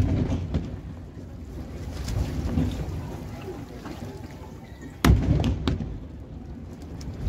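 Aerial firework shells bursting: a loud bang at the start, a softer one about two seconds in, and another loud bang about five seconds in with a few sharp cracks after it, each bang trailing off in a deep rolling rumble.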